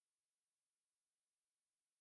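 Near silence: the sound track is essentially blank, only a faint steady hiss.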